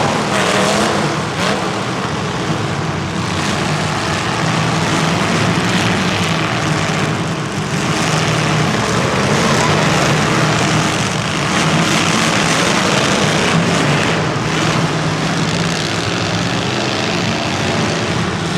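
Racing engines running steadily, a continuous low hum under rushing noise.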